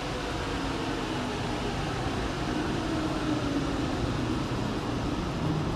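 Honda Acty kei truck on a chassis dyno just after a full-throttle pull, its engine and the dyno running on at low speed as a steady mechanical hum and fan-like rush, with a faint tone that sags slightly midway.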